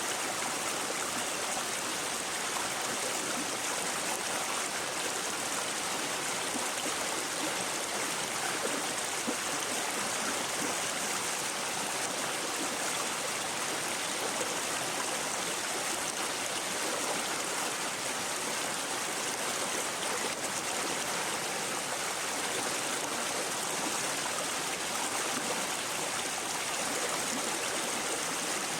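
Shallow brook babbling and gurgling over stones, a steady rush of flowing water.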